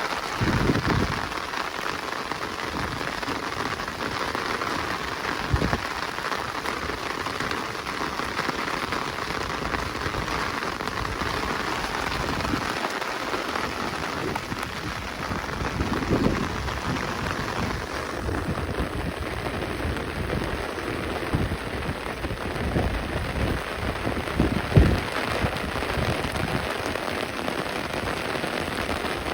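Steady rain falling in a forest, an even hiss of drops on leaves and ground, with a few short low thuds scattered through it, the loudest near the end.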